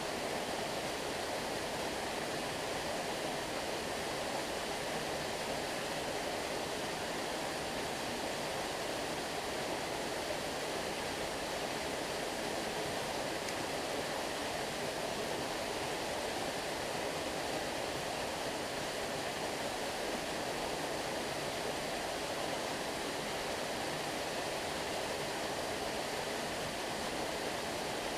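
Stream water flowing and rushing steadily, with no distinct splashes or changes.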